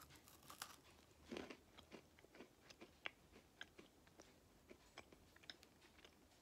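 Faint chewing of a crisp chocolate-filled pastry stick, with scattered small crunches and mouth clicks.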